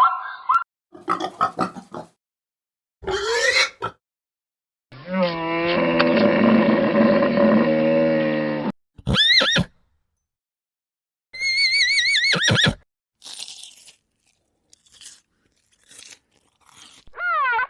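A series of separate animal calls played one after another with silent gaps: rasping noisy calls, a short rising cry, a long pitched call held for nearly four seconds, a high warbling call, and an arching call near the end.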